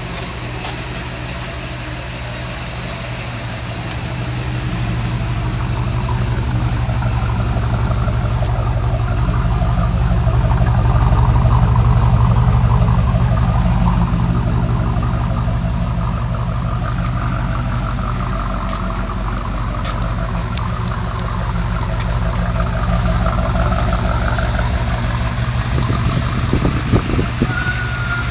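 1964 Pontiac Parisienne's engine idling steadily, louder for a stretch in the middle, with a few short knocks near the end.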